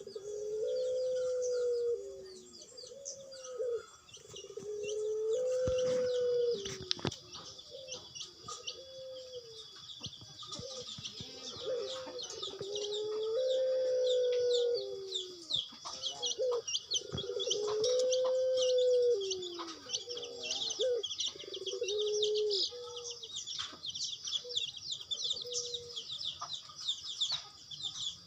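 Puter dove cooing: a long series of low, arched coos, each about a second long, repeating one after another and stopping near the end. A dense, steady high chirping runs underneath.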